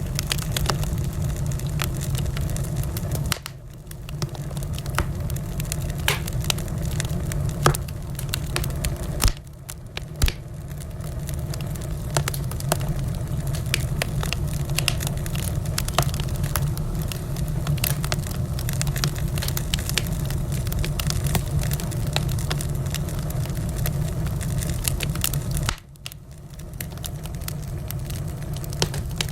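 Wood fire burning in a fireplace: a steady low rumble with frequent small crackles and a few louder pops, dropping away briefly three times.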